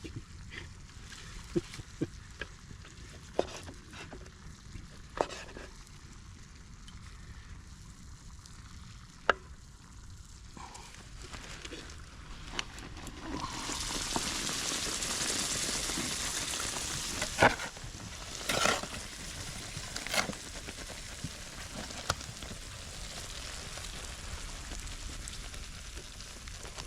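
Small pieces of fallow deer fillet sizzling in a frying pan, with scattered clicks and knocks of utensils. About halfway through the sizzle swells to a loud hiss for several seconds, then settles back to a steady, quieter sizzle.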